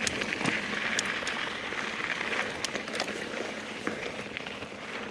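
Mountain bike rolling along a dirt trail: a steady crunchy hiss of tyres on loose ground, with scattered sharp clicks and ticks.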